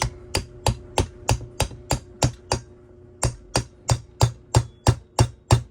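Hammer tapping on a socket about three times a second, with a short pause partway through, driving a new crankshaft oil seal into the crankcase of a Stihl TS 400 clone cut-off saw.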